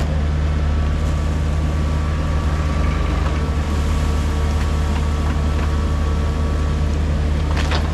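Mini excavator's diesel engine running steadily under load, a low even drone, while its ripper works through the ground.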